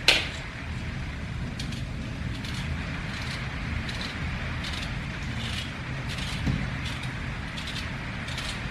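Steady rain with single drops ticking irregularly. A sharp knock sounds right at the start and a dull thump about six and a half seconds in.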